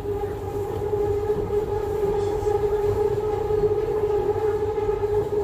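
Subway train running: a steady whine over a low rumble.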